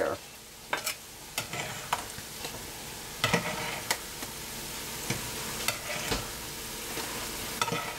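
Ramen noodles sizzling as they fry in a pan, with a fork clicking and scraping against the pan every second or so as the noodles are turned over.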